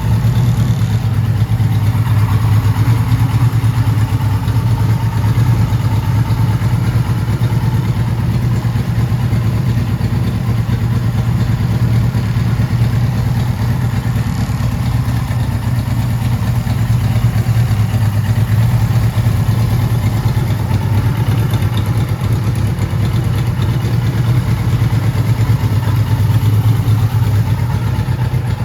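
1979 Kawasaki Z1000ST's air-cooled inline four-cylinder engine running at a steady idle. It breathes through aftermarket pod air filters.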